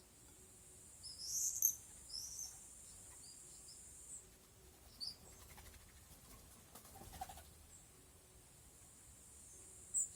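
Birds chirping faintly in short high twitters, the busiest group about a second in and single chirps later, over a steady high-pitched hiss.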